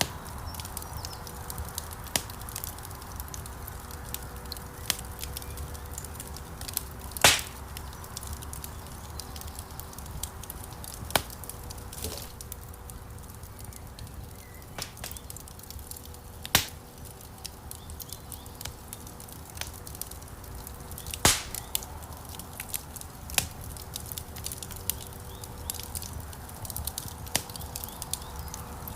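Wood fire crackling in a stone fireplace: a steady low rush of burning logs with scattered sharp crackles and a few loud pops, the loudest about seven, sixteen and twenty-one seconds in.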